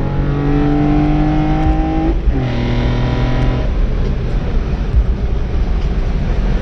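BMW E46 M3's S54 straight-six with individual throttle bodies accelerating hard: the note climbs through a gear, drops at an upshift about two seconds in, and climbs again. A little under four seconds in the engine note falls away, leaving road and wind noise.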